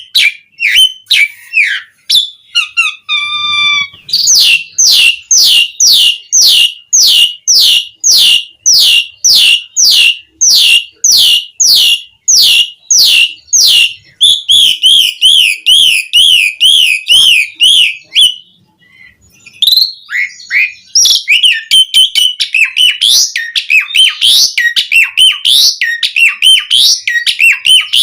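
Asian pied starling (jalak suren) singing loudly. It opens with quick notes, then gives a long run of repeated falling whistles at about two a second, then a fast wavering trill. After a brief pause about two-thirds of the way in, it goes into varied chattering.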